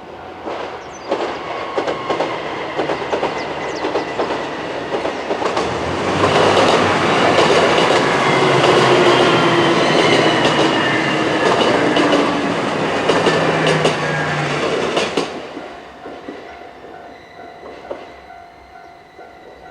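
The Hamakaze limited express diesel train passes a level crossing. Its engines and wheels build up, are loudest for about ten seconds with rapid clicks over the rail joints, then fade after about fifteen seconds. The crossing's warning bell keeps ringing steadily underneath.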